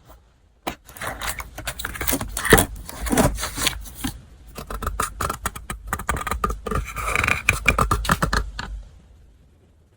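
Hands handling stationery and packaging: a dense run of rustles, taps and small clicks of paper and small hard items, which stops about nine seconds in.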